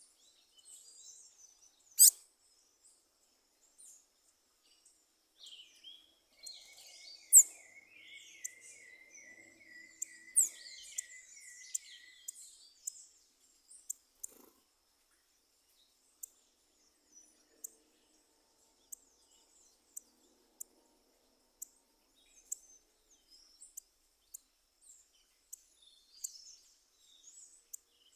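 Birds singing and calling: sharp high chirps, the loudest about two seconds and seven seconds in. A run of quick repeated notes lasts from about six to twelve seconds in. After that come short high chirps about once a second.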